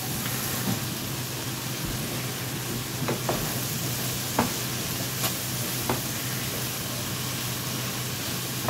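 Corn sizzling as it fries in a nonstick skillet. From about three seconds in, a wooden spoon stirs it, knocking and scraping against the pan several times.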